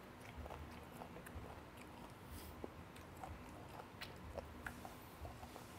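A person chewing food close to a clip-on microphone, with faint, irregular clicks and wet mouth sounds.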